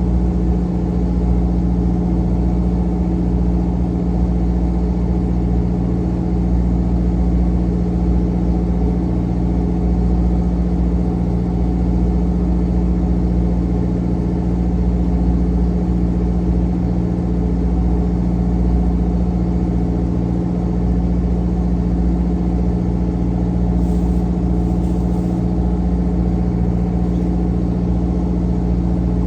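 Fishing boat's engine running at a constant speed, a loud steady drone.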